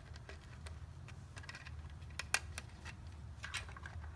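Light clicks and taps of small plastic RC tank parts and a cable being handled and fitted by hand, scattered irregularly with the sharpest clicks about two seconds in, over a low steady hum.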